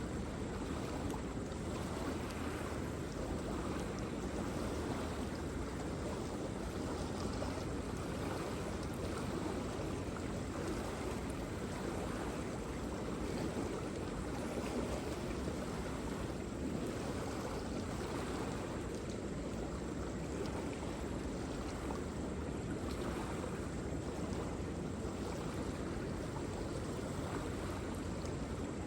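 Waterfall rushing: a steady, even roar of falling water, strongest in the low and middle range and unchanging throughout.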